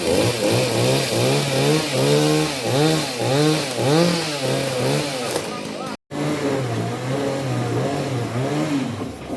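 Two-stroke chainsaw revved again and again, its pitch rising and falling about twice a second, then running steadier under load after an abrupt cut about six seconds in.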